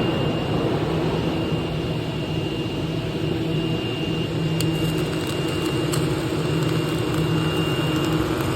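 Submerged arc welding equipment running: a steady machine hum with a faint high whine over it, unbroken through the whole stretch.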